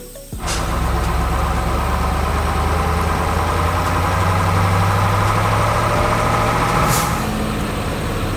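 Heavy vehicle engine running steadily, then dropping to a lower idle about seven seconds in, with a short sharp hiss near the start and another as it drops.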